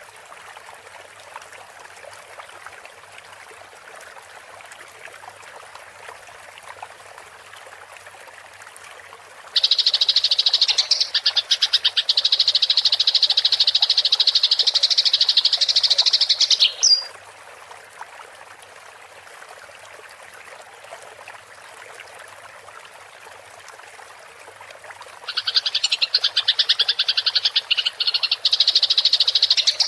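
Eurasian tree sparrows chattering in fighting calls: a long, loud, rapid trill of about seven seconds starting about a third of the way in, and another starting in the last few seconds. Between the trills only a steady soft rush of running water.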